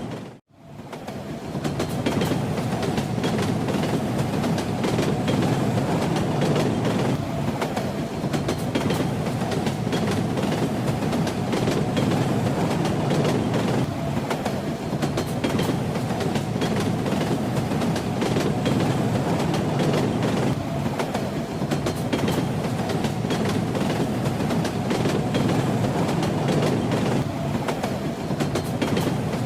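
Steady rumble and rattle of a moving train, with the clickety-clack of wheels over the rails. The sound drops out for a moment just after the start and fades back in.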